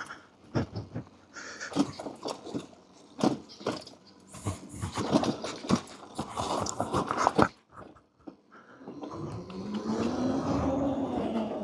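Terra Prime electric dirt bike on a rough trail: a run of irregular knocks and rattles as the bike bounces over the ground, then, about nine seconds in, the electric motor's whine rising and falling in pitch.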